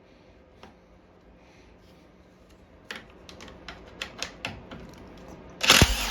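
Small metal tools clicking and clattering, a run of sharp ticks, then a short loud burst of a power drill that winds down near the end.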